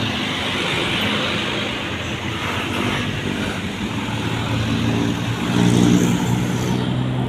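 Motor vehicle engine running with a steady low hum over road noise, getting louder a little over five seconds in and easing off again near the end.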